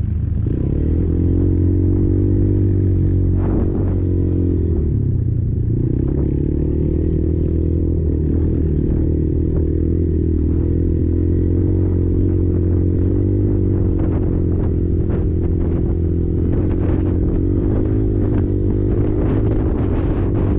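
Kymco Maxxer 300 quad's single-cylinder four-stroke engine running under way, its pitch dipping and then climbing again about five seconds in. Frequent short knocks and rattles come through in the second half.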